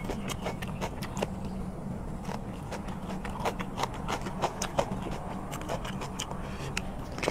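Close-miked wet chewing and lip-smacking while eating squid dipped in chili sauce: many short, irregular clicks and smacks, several a second, over a steady low hum.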